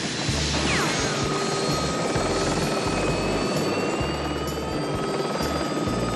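Helicopter running, its turbine and rotor making a steady dense noise, with a dramatic music score underneath.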